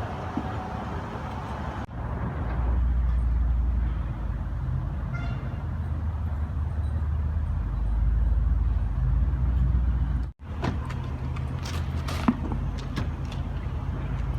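Steady low engine and road noise of a moving vehicle, cutting out abruptly twice, with a few sharp clicks near the end.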